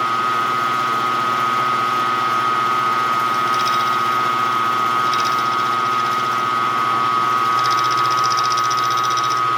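Milling machine running with a steady whine while the spinning cutter is fed in to touch the workpiece. A faint higher hiss comes and goes three times, the longest near the end, as the cutter starts to graze.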